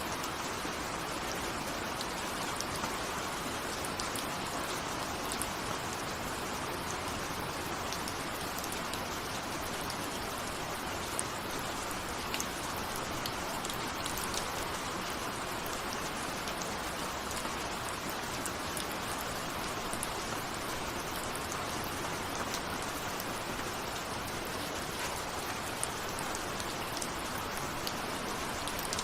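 Steady rain falling, with individual raindrops ticking sharply now and then over the even hiss of the downpour.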